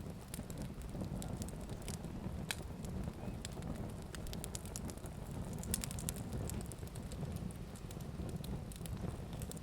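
Fire burning with a steady low rumble and many irregular sharp crackles and pops, several a second.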